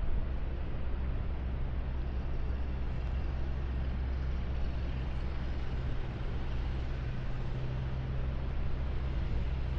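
A vehicle engine running steadily with a constant low hum over street noise.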